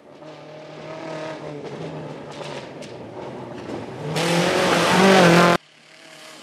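Volkswagen Gol rally car's engine running hard, its note rising and falling as it comes closer and grows much louder. It cuts off suddenly about five and a half seconds in, leaving a fainter engine sound.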